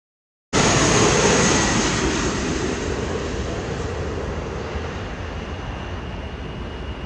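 Jet airliner engine noise. After a brief silence it starts suddenly as a loud, even rush, then fades gradually, with a faint high whine showing through near the end.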